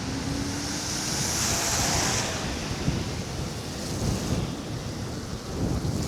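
Wind buffeting the microphone in a snowstorm, a rough rumbling rush with a brighter hiss that swells about a second in and fades after two seconds.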